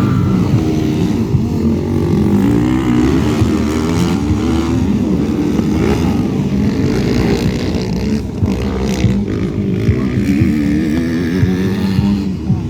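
Several motocross bikes racing on a dirt track, their engines revving up and down as they accelerate and back off.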